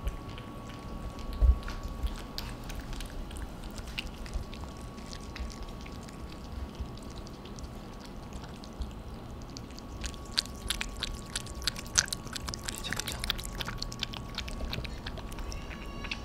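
Two cats eating noisily, a busy run of quick wet smacking and lapping clicks that gets thicker in the second half. There is one low thump about a second and a half in.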